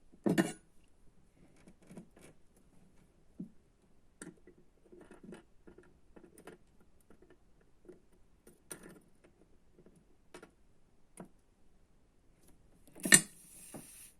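Scattered light clicks and taps of small objects being handled, with a sharp knock just after the start and a louder knock near the end followed by a short hiss.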